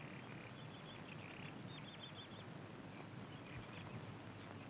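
Faint birds chirping over a steady hiss, with a quick run of about five short chirps about two seconds in.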